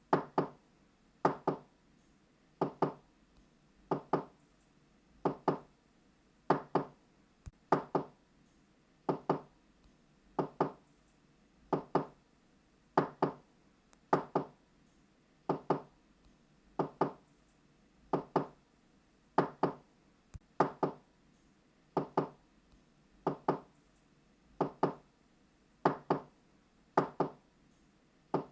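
Knocking on a door, a double knock repeated about every second and a half, steadily.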